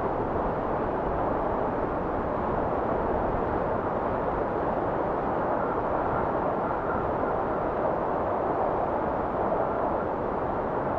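Blizzard wind blowing steadily, a dull, even rush with a faint high whistle coming and going in it.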